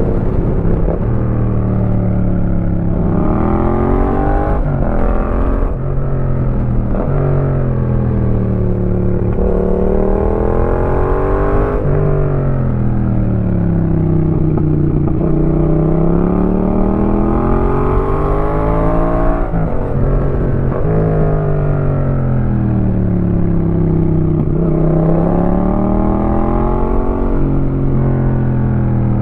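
Yamaha MT-07's 689 cc parallel-twin engine through a Roadsitalia aftermarket exhaust, ridden hard. The revs climb through the gears with quick drops at each shift, then fall away off the throttle, over and over.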